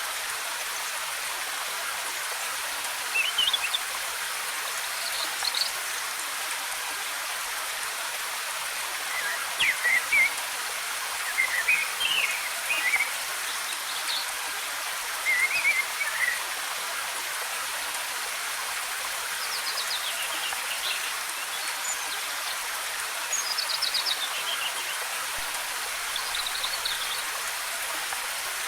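Steady hiss of cascading water, with forest birds chirping in short, scattered phrases, some quick runs of notes, over it.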